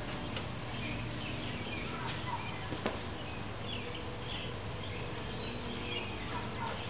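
Faint chirps of small birds over a steady low hum, with one sharp click about three seconds in.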